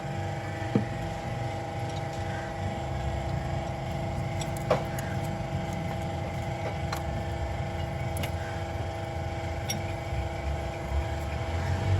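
A steady machine hum with several held tones over a low rumble, broken by a few short, sharp clicks.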